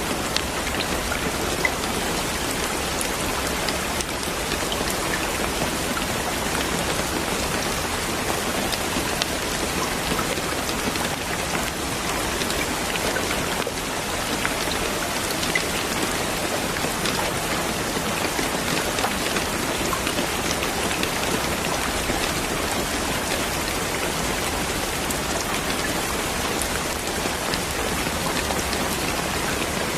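Steady rainfall with scattered droplet ticks, an even hiss that doesn't change.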